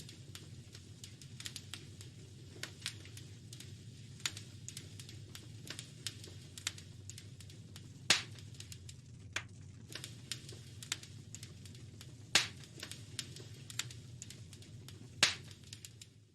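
Wood fire crackling in a fireplace: a steady stream of small sharp crackles over a low steady rumble, with three louder pops about eight, twelve and fifteen seconds in.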